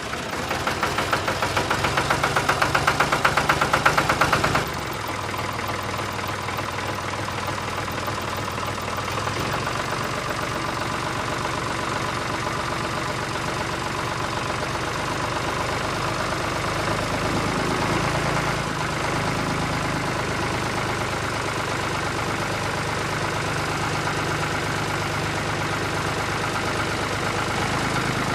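Small motor of a homemade model tractor running with a rapid buzzing rattle. It grows louder over the first few seconds, drops suddenly about four and a half seconds in, and then runs steadily.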